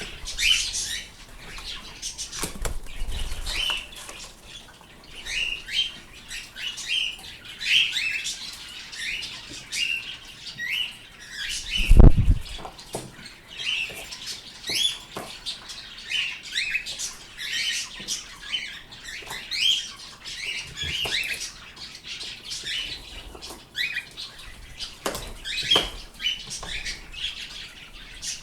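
Pet birds calling with short, quick chirps over and over, amid scattered clicks and rustling of wings; one loud dull thump about twelve seconds in.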